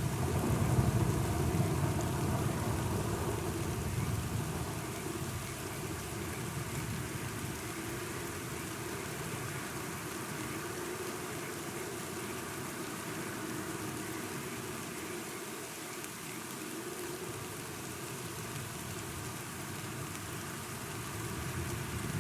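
Steady rainfall, with a low rumble of thunder over the first few seconds that fades away, then rain alone until the rumble starts to build again near the end.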